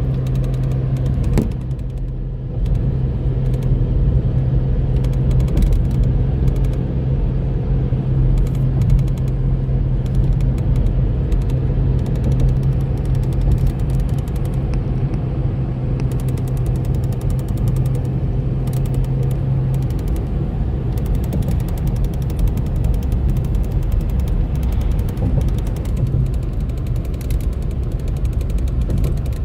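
A car on the road: a steady low engine drone over road rumble, the drone dropping away about two-thirds of the way through.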